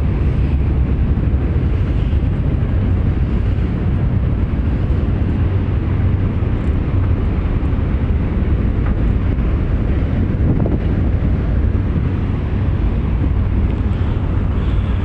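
Steady low rumble with wind buffeting the microphone, unbroken throughout.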